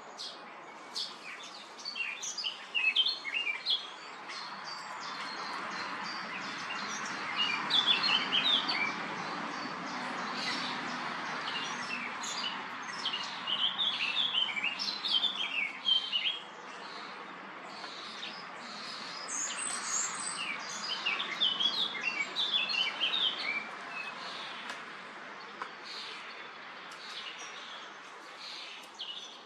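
Common starlings chirping and calling in a steady stream of short high chirps, busiest in two spells, over a steady rushing noise that swells in the middle.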